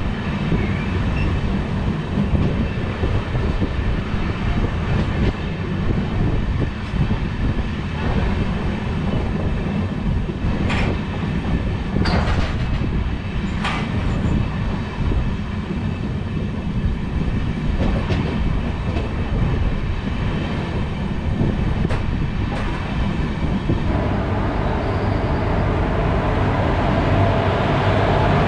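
LHB passenger coach of an express train running along the track: a steady, loud rumble of wheels on rail, with a few sharp clicks around the middle. A louder hiss sets in near the end.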